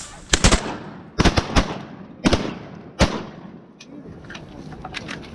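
A volley of about seven shotgun shots from waterfowl hunters firing at incoming ducks, coming in quick pairs and singles over about three seconds.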